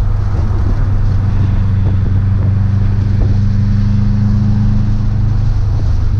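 Car engine and tyre/road noise heard from inside the cabin while driving on a race track, a loud steady drone. A higher engine note climbs a little, then drops out about five and a half seconds in.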